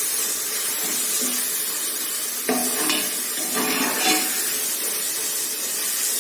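Sliced tomatoes and onion masala sizzling in hot oil in a pressure cooker while being stirred with a spoon, with a few short ringing scrapes of the spoon against the pot about halfway through.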